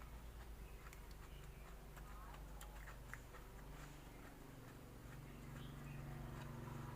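Faint chewing with irregular small mouth clicks while eating raw shrimp, over a steady low hum. A low drone grows louder near the end.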